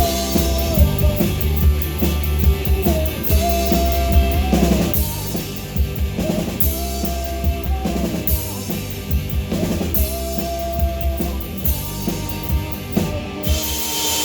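Live rock band playing, with the drum kit prominent: kick, snare and rimshot hits under held guitar notes.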